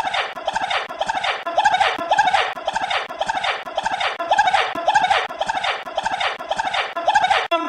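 A short snippet of a man's voice looped over and over in a stutter edit, repeating about twice a second with a hard cut between repeats.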